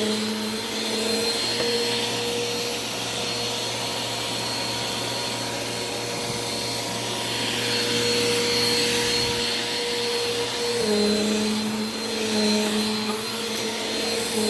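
Bissell PowerForce Compact Turbo upright vacuum cleaner running on carpet: a steady motor whine over a rush of airflow. Its pitch dips and wavers about three-quarters of the way through as it is pushed along.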